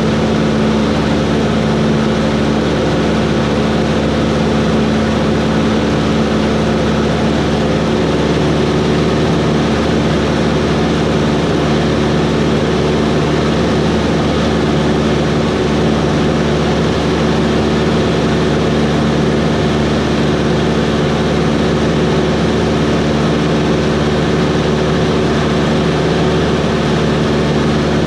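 Cessna 140 light plane's piston engine and propeller running at a steady, unchanging drone.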